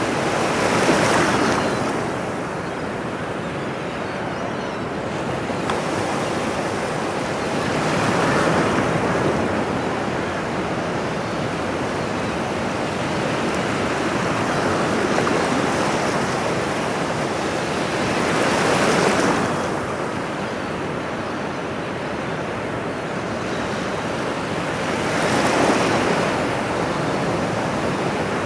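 Ocean waves washing onto a shore, a steady rush with four swells as waves break, about one second in, near eight seconds, near nineteen seconds and near twenty-six seconds.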